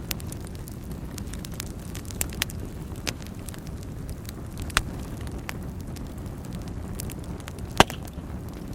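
Wood fire crackling in a fireplace: a steady low rumble of burning with scattered sharp pops, about half a dozen, the loudest one near the end.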